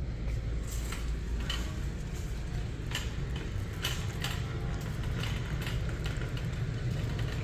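Shopping cart being pushed, its wheels rumbling over the floor with irregular rattles and clicks.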